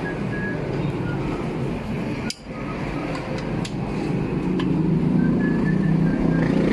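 Steady rumbling workshop noise with a few light metallic clinks. The sound drops out sharply for a moment about two seconds in.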